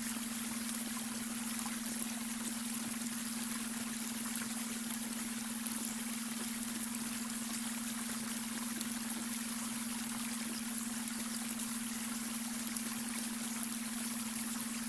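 Babbling brook: water running and trickling steadily over stones, with a constant low hum-like tone underneath, the added beta brainwave tone.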